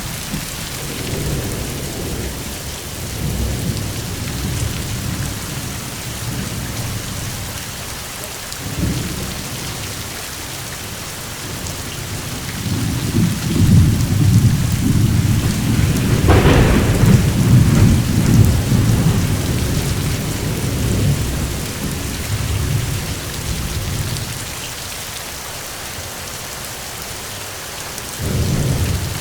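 Steady rain with rolling thunder: low rumbles swell and fade, building to the loudest roll about halfway through, with a sharper crack at its peak.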